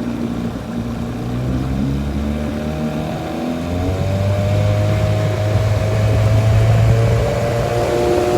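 1969 9.5-horsepower outboard motor pushing a small boat under way, speeding up and getting louder about halfway through, then holding steady.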